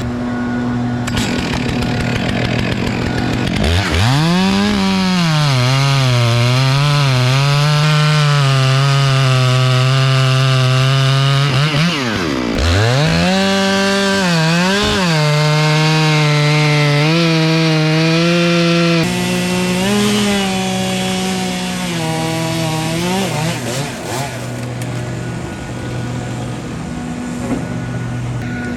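Chainsaw revving up about four seconds in and cutting through a log, its pitch sagging and wavering as the chain loads in the wood. It drops off briefly about twelve seconds in, then cuts again until about twenty-three seconds in. A steady idling engine runs underneath.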